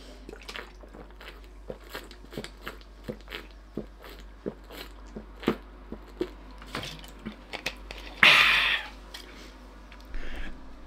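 A toothless man chewing food with his gums, with small wet clicks and smacks about two or three times a second. There is one short loud hissing burst about eight seconds in.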